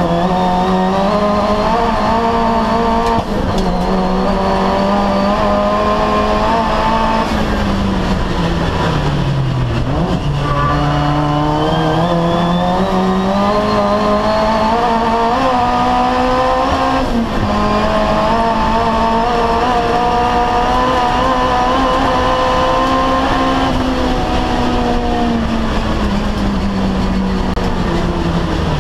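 Turbocharged 1.5-litre 4G15 four-cylinder of a Mitsubishi Colt Ralliart race car, heard from inside the cabin, running hard at high revs. The revs dip and climb again about nine seconds in. They drop sharply at the shift from third to fourth about 17 seconds in, rise again, then fall away near the end.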